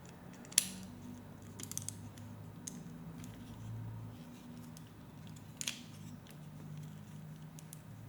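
Plastic Lego Technic pieces clicking and rattling as they are handled and fitted together: scattered sharp clicks, one with a short scrape about two thirds of the way through, over a faint steady low hum.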